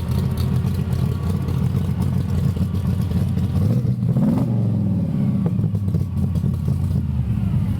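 Vehicle engine idling steadily, with one brief rev about four seconds in.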